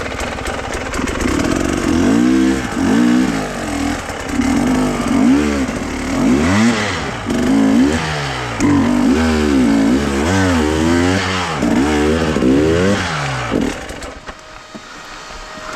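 Motor vehicle engine revving up and down over and over, its pitch rising and falling about once a second, then dropping away near the end.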